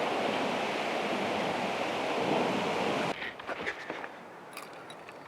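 Food frying in a hot pan, a steady loud sizzle that cuts off abruptly about three seconds in, followed by faint scattered clicks.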